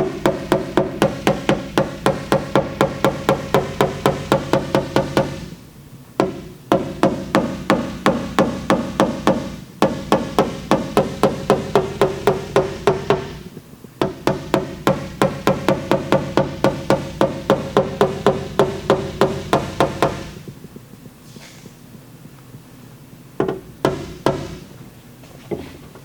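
Rapid, even hammer taps on a car's sheet-metal liftgate, about four or five a second in long runs with short breaks, the panel ringing with each blow as a tight crown beside a glue-pulled dent is knocked down under tension from a bridge lifter. The runs stop about 20 seconds in, followed by a few single taps near the end.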